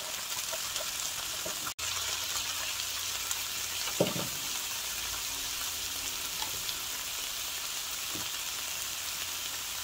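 Ground chicken and chili peppers sizzling steadily in an electric skillet while being stirred with a slotted spatula, with one short knock about four seconds in.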